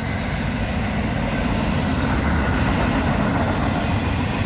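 Freight train passing close by, a steady heavy noise of wheels and cars on the rails.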